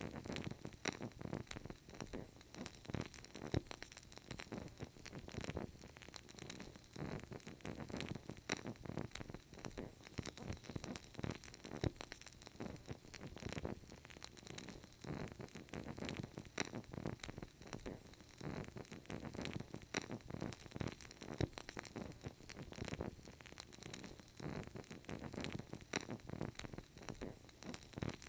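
Burning candle crackling: many small irregular pops and ticks over a soft, steady low rustle.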